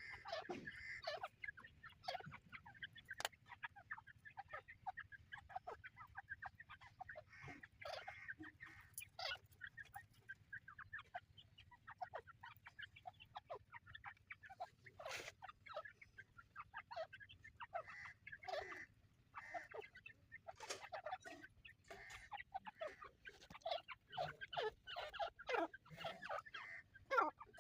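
A family group of teetar (francolin partridges) giving soft, short clucking and chirping calls, many small calls overlapping, busier and louder near the end.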